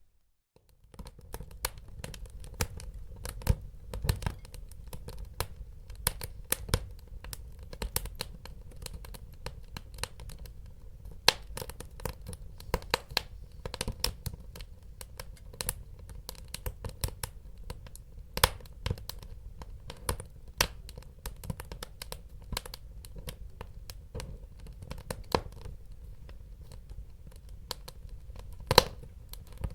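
Wood fire in a fireplace crackling and popping: dense, irregular sharp pops of varying loudness over a low rumble of the burning. The fire sound cuts in after about a second of near silence at the start.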